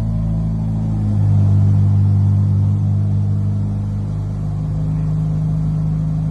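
Ferrari engine idling steadily with a deep, even hum, getting slightly louder about a second in.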